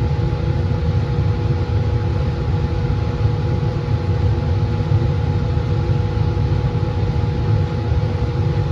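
Laminar flow hood's blower running steadily, a low roaring with two faint steady tones above it.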